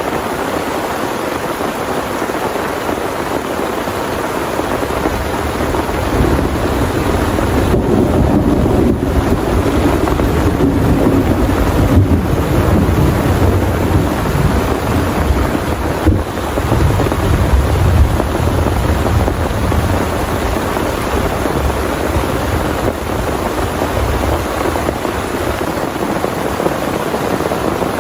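Heavy rain pouring steadily, with a long low roll of thunder that starts about six seconds in, peaks around the middle and fades out a few seconds before the end.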